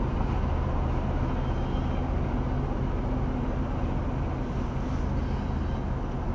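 Freight train of tank cars rolling steadily through a road crossing, a continuous low rumble heard from inside a car's cabin.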